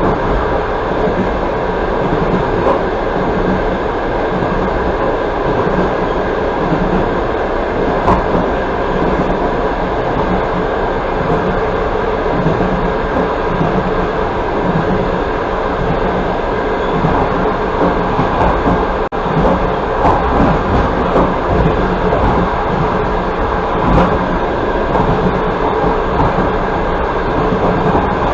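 Passenger train running at speed, heard from aboard: a steady rumble of wheels on the rails with a few sharp knocks.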